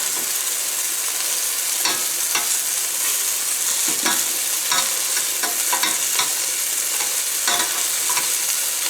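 Chicken pieces frying in hot oil in a pan, a steady sizzle, with a few scrapes and clicks of a utensil against the pan as the pieces are moved.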